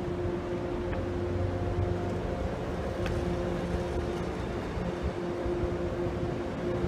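MBTA commuter rail train rolling past with bilevel coaches: a steady drone with a low hum and a few faint clicks from the wheels on the rails.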